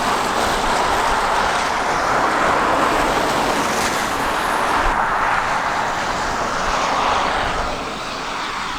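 A car driving on a rain-soaked road: a steady hiss of tyres and spray on wet tarmac, easing off slightly near the end.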